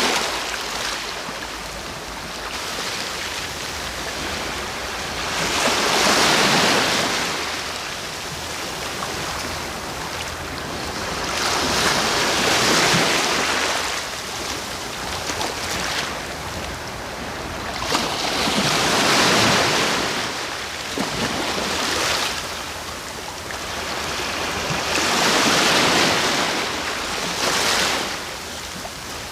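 Sea waves washing in over a steady hiss of surf, one louder wave about every six to seven seconds, four in all.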